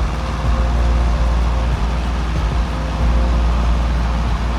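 Cessna 172 Skyhawk's piston engine and propeller running steadily at climb power, heard inside the cockpit as a constant drone with a deep low hum.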